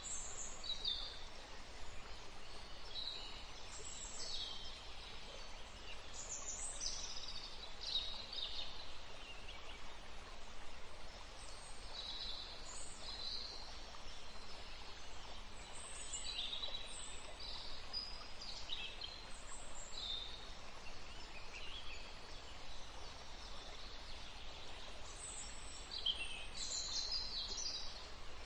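Small songbirds chirping and trilling in a forest, many short high calls overlapping throughout, over a faint steady rush of a small stream.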